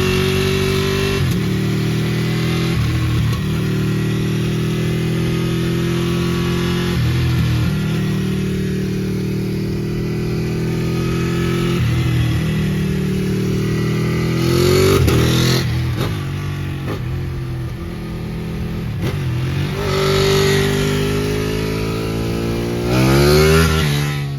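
A 2014 Ducati Panigale 899's Superquadro V-twin engine running under way, its note steady with brief dips. It then revs up three times, about two-thirds through, near 20 s and near the end, the last the loudest before the note drops away.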